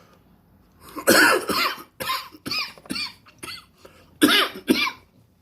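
A person's coughing fit, typical of someone smoking weed: about seven harsh coughs starting about a second in, the first the longest and loudest.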